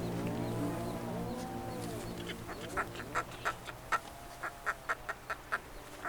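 A bird giving a rapid series of short, sharp calls, about three a second, while background music fades out at the start.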